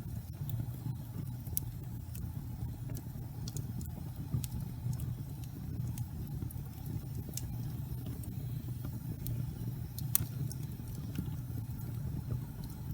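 Wood fire burning in a fireplace: a steady low rumble with scattered sharp crackles and pops of the burning logs, the loudest pop about ten seconds in.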